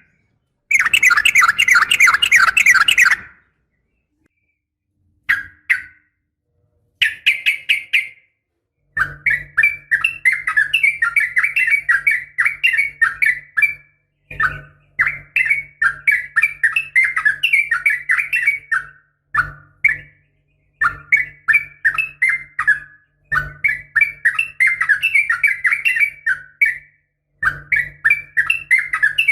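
Sooty-headed bulbul (trucukan) giving rapid, chattering call phrases in bouts of a few seconds with short pauses between them. It is a lure recording that the uploader presents as a female calling a male. A faint low hum sounds under the bouts from about nine seconds in.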